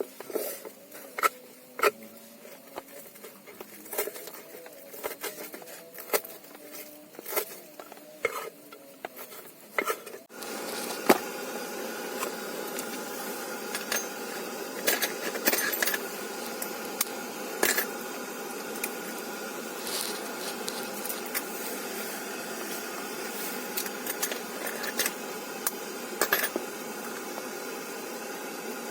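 Utensils clinking against metal dishes or a pot in sparse, irregular clicks while eating. About ten seconds in, the sound changes abruptly to a steady hiss with a constant hum, still broken by an occasional click.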